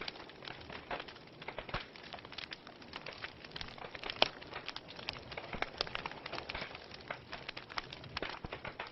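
Wood fire in a fireplace crackling, with irregular sharp pops over a faint steady hiss and one louder snap about four seconds in.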